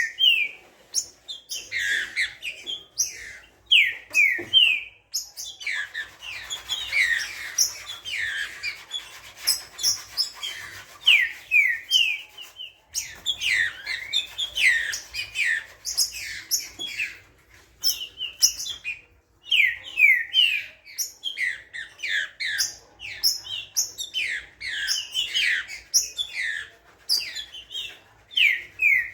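Green-winged saltator (trinca-ferro) singing 'fogoso', fired up: phrase after phrase of loud, down-slurred whistled notes in quick succession, with a short break about five seconds in.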